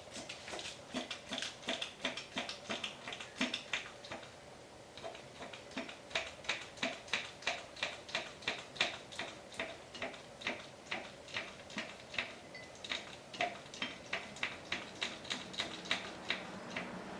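Ratchet wrench clicking in a steady run of sharp ticks, about two to three a second, with a short pause about four seconds in.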